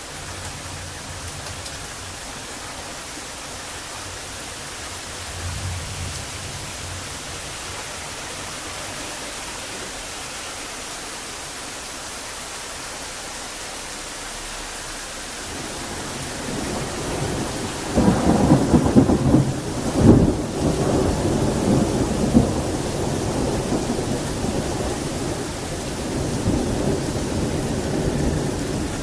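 Thunderstorm: steady heavy rain hiss with a faint low rumble of distant thunder in the first few seconds. Past the middle the thunder builds, breaks into loud sharp cracks about two-thirds of the way in, then rolls on as a long rumble.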